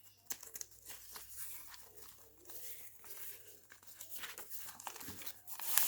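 Paper pages of a handmade journal rustling and crinkling as they are handled and turned, with many small clicks and scrapes.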